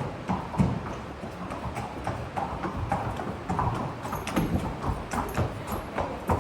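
Horse hooves clip-clopping as a horse walks, an uneven train of knocking steps a few times a second.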